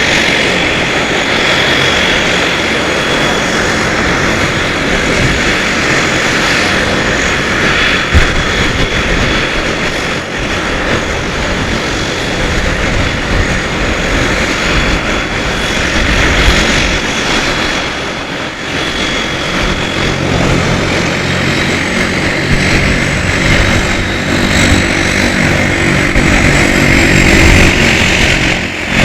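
Embraer EMB 120 Brasilia's twin Pratt & Whitney PW118 turboprops running, with a steady high turbine whine over the propeller noise. About two-thirds of the way in, a lower steady drone joins, and the sound grows louder toward the end.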